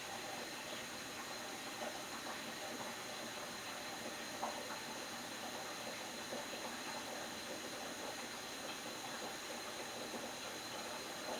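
Faint steady hiss, with a few soft, brief clicks or clinks.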